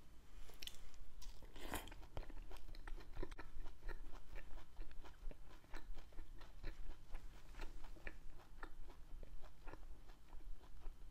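Close-miked chewing of soft fish roe from a spicy roe hot pot: a steady run of small wet mouth clicks and smacks, several a second, with a few louder ones in the first two seconds.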